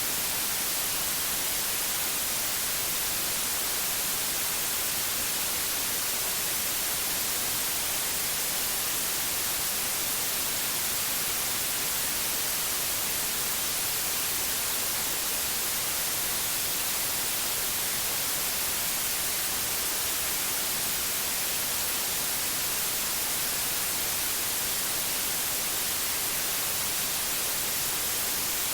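Steady white noise: an even, unchanging hiss, bright and strongest in the high frequencies.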